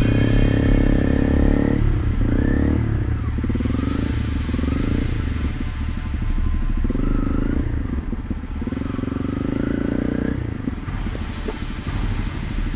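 Honda CRF300 Rally's single-cylinder engine running as the motorcycle is ridden at low speed, its note dropping and rising again several times with the throttle, and easing off near the end.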